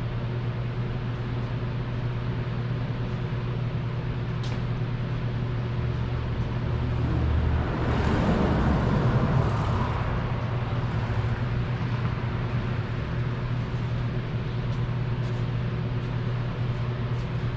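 Motor vehicle running with a steady low hum. A rushing noise swells about halfway through and then fades back.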